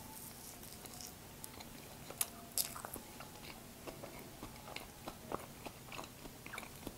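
A person biting into and chewing a soft fruit muffin close to the microphone: quiet chewing with scattered short wet mouth clicks, a couple of them sharper about two and a half seconds in.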